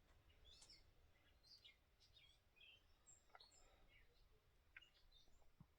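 Near silence with faint, scattered bird chirps: short high calls coming every half second or so.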